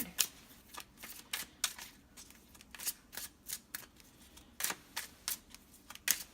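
Tarot cards being handled: a run of light, sharp clicks and slaps, about three a second.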